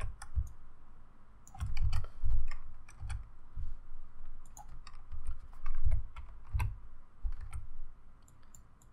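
Irregular clicking of a computer keyboard and mouse, mixed with dull low thuds.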